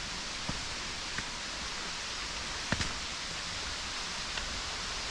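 Steady rushing of a waterfall heard from a short way off, almost like the wind in the trees. A few faint knocks sound over it, the loudest nearly three seconds in.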